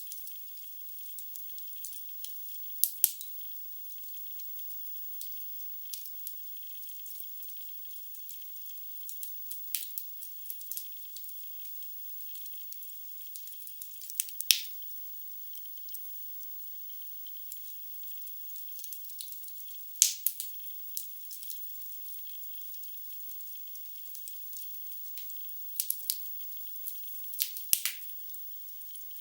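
Wood fire crackling in a fireplace: a faint steady hiss with scattered sharp pops, a few louder ones about 3, 14 and 20 seconds in and a cluster near the end. It sounds thin, with no bass.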